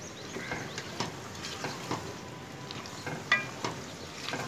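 Taro root pieces frying in oil and masala over high heat, sizzling steadily, while a metal ladle stirs them with scattered scrapes and clicks against the pot.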